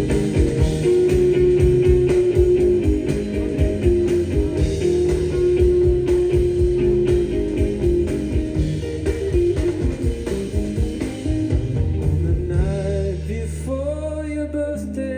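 Live band playing an instrumental passage of the song, with guitar and a steady beat under a repeating melody. About thirteen seconds in, the beat drops out, leaving a held low note under a melody line that slides in pitch.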